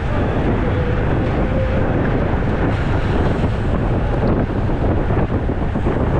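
Steady rushing wind noise buffeting the microphone of a camera riding on a road bike in motion.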